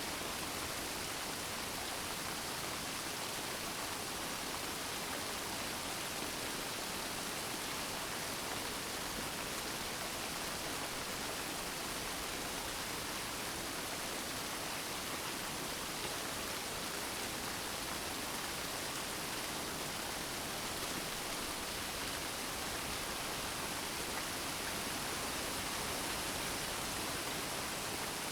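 Steady rain, an even hiss of falling water with no distinct drops or thunder.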